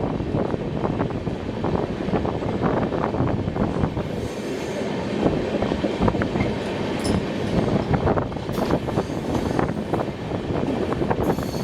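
Indian Railways passenger train running on the ghat line, heard from on board: a continuous rumble and rattle of the carriage with clattering knocks from the wheels, and a few brief high wheel squeals.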